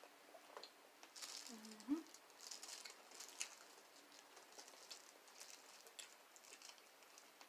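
Faint chewing and wet mouth clicks of someone eating a soft meal of corned beef and cabbage: scattered soft crackles and smacks.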